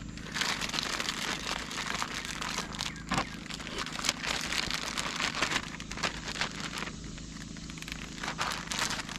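Crinkling and rustling of plastic food packaging being handled, in dense crackly bursts that thin out for a couple of seconds near the end, over a steady low hum.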